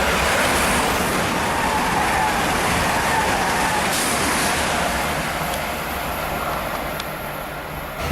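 Train passing close by at speed: a loud rushing roar with a faint falling tone in the first few seconds, easing off slowly toward the end.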